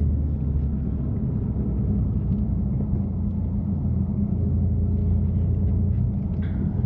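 BMW F80 M3 Competition's twin-turbo straight-six, with catless downpipes and an exhaust whose valves are always open, droning steadily at a slow, even cruise.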